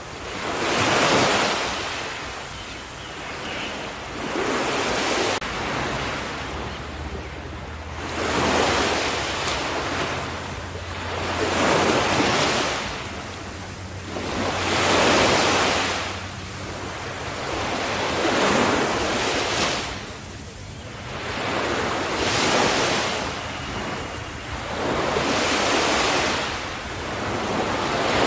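Ocean waves breaking and washing onto the shore. A wash of surf swells and ebbs about every three to four seconds, eight times or so.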